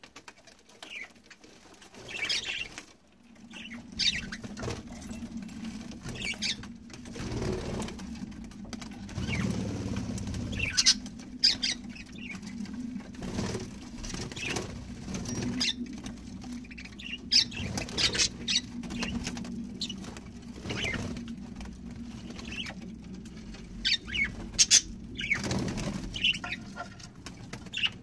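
Budgerigars bathing: wings fluttering and splashing in short spells, with brief high chirps scattered throughout. A steady low hum runs underneath from about three seconds in.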